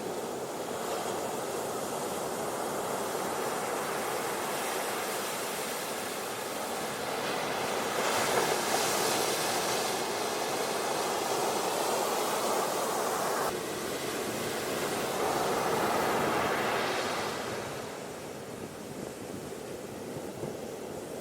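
Ocean waves washing on a beach, a steady rushing surf that swells louder twice and eases off near the end.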